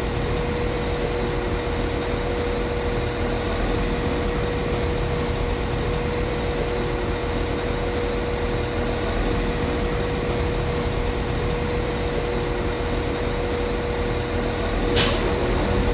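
Class 195 CAF Civity diesel multiple unit's underfloor diesel engine idling steadily, with a constant low rumble and a steady hum. A single sharp click sounds near the end.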